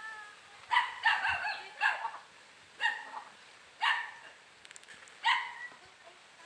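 A dog barking: about six short, fairly high-pitched barks at irregular intervals.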